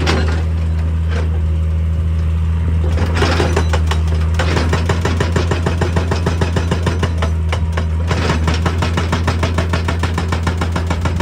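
Excavator diesel engine running steadily while a hydraulic breaker hammers rock in rapid, evenly spaced blows. The hammering starts about four seconds in, stops briefly near the middle, then resumes.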